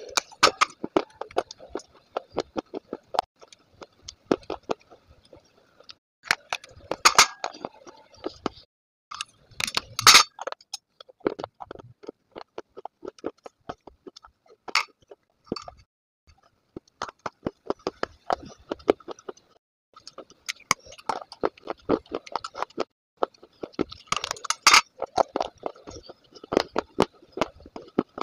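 A person biting and chewing pieces of baked clay: a dense run of dry crunches and crackles, with louder bursts of crunching about 7 and 10 seconds in and again near the end.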